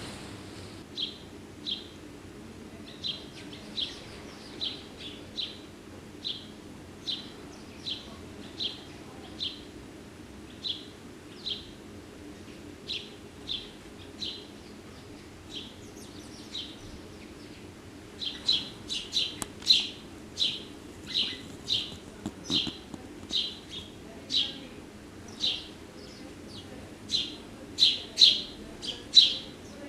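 Small songbird chirping: short, high chirps repeated about once a second, coming faster and louder from about two-thirds of the way in.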